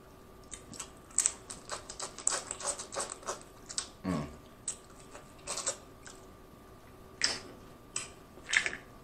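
Close-miked wet eating sounds, chewing and lip smacking on sauce-dipped snow crab meat. A quick run of clicks comes between about one and three and a half seconds, a short low falling hum near four seconds, then a few more scattered smacks.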